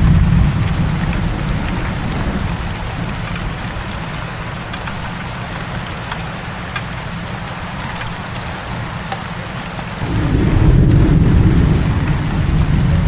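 Heavy rain falling steadily, with scattered drop ticks, over a low rumble of thunder that fades away and swells back about ten seconds in.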